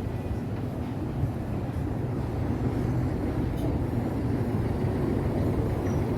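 Steady low rumble of a motor vehicle's engine running close by in street traffic.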